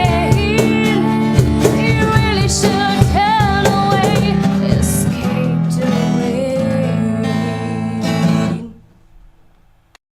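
Acoustic band music: guitar and a singer holding a note with vibrato over drum hits, ending the song on a held chord that stops about nine seconds in.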